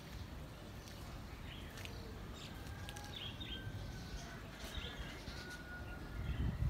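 Small birds chirping in short, scattered calls over a low, steady rumble, with a dull thump near the end.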